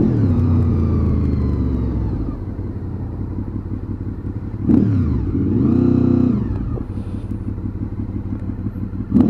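Honda VFR800's V4 engine running on the move. The revs fall over the first two seconds, then hold lower. About five seconds in they rise and drop again, and they pick up once more near the end.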